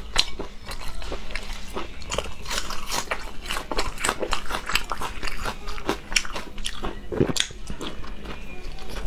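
Close-miked eating sounds: a person biting and chewing food, heard as a dense, irregular run of short mouth clicks.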